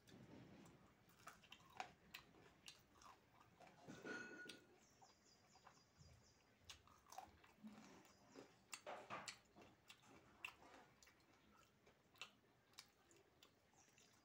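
Faint chewing and mouth smacks of a person eating fried fish and soaked rice by hand, with scattered soft clicks and a busier stretch about four seconds in and again around nine seconds.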